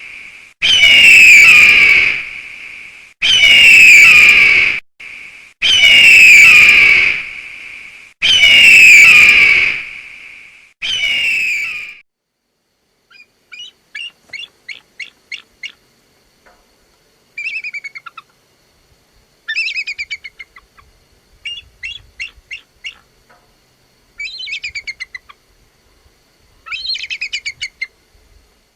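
Bird calls in two parts: a loud, drawn-out call repeated five times, about every two and a half seconds, then from about halfway on, quieter bursts of rapid chattering notes.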